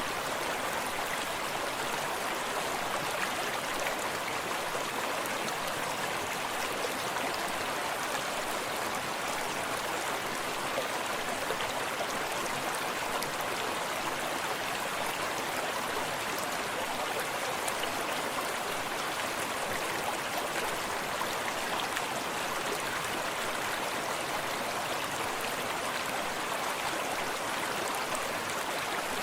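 Forest stream running steadily, an even rushing and splashing of water over rocks.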